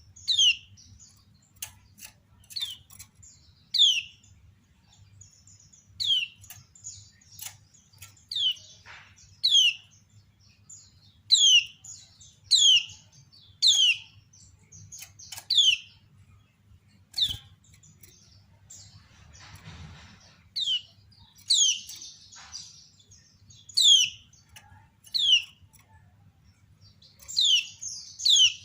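Female kecial kuning (a white-eye) giving its 'ciak' call over and over: short, high notes that sweep downward, about one every second or so, over a faint steady low hum.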